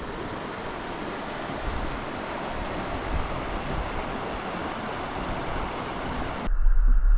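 Steady rush of flowing water, like a creek cascade or small waterfall. About six and a half seconds in it cuts off suddenly, giving way to a low rumble.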